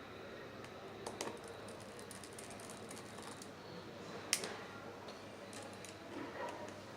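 Scattered small clicks and taps of a smartphone being taken apart, with hand tools and plastic parts, with a few quick clicks near the start, one sharp click about four seconds in, and a short cluster near the end.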